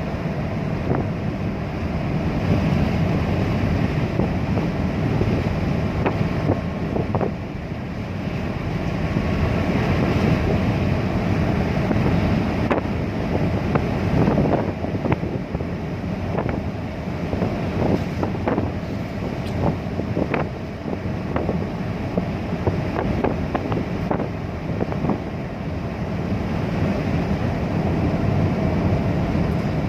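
Car interior noise while driving on a wet road: a steady low rumble with tyre hiss, and scattered light ticks.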